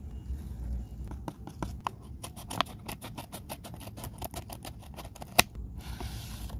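Handmade paper craft being handled close up: a quick irregular run of sharp paper clicks and taps, the loudest snap about five seconds in, then a short swish of rustling paper near the end.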